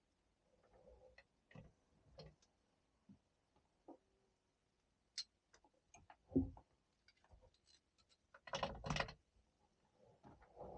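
Hand tools working on a boat engine's exhaust manifold bolts: scattered light clicks and clinks of metal, a thump a little past halfway, and a louder run of knocks near the end.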